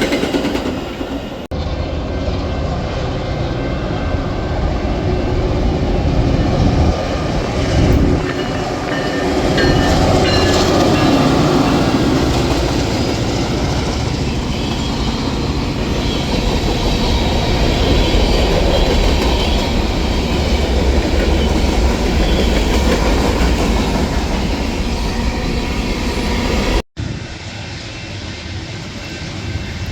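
A train rolling past at close range: a continuous loud rumble of wheels on rail, with clickety-clack over the rail joints and some wheel squeal. The sound breaks off abruptly twice, about a second and a half in and near the end.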